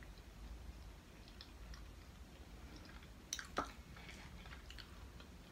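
Faint chewing and small wet mouth clicks from someone eating, with a sharper knock and crackle about three and a half seconds in.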